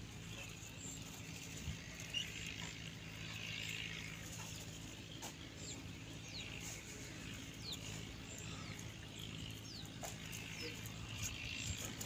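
Faint, short, high downward-gliding bird chirps, scattered through the middle, over a steady low hum.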